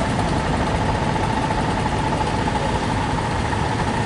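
Steady running rumble of a train crossing a railway bridge, heard from on board, with a faint steady hum running through it.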